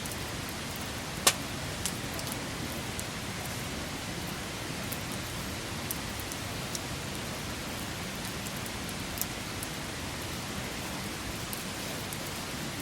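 Wood campfire burning: a steady hiss with scattered crackles and pops, one sharp pop about a second in.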